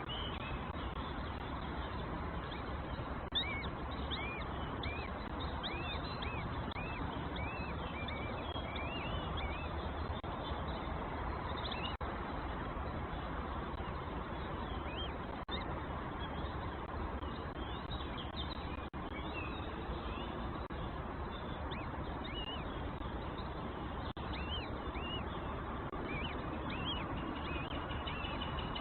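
Nestling birds giving many short, high begging chirps in quick clusters as they are fed in the nest, over a steady background hiss.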